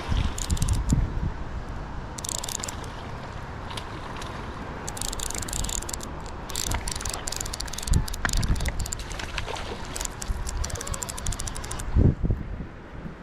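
Fishing reel clicking in fast runs of ticks, several times over, with wind buffeting the microphone and a few low thumps.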